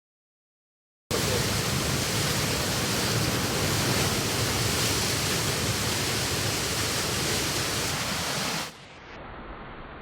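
Loud, steady rush of a waterfall, starting suddenly about a second in. Near the end it cuts to a quieter, duller rushing.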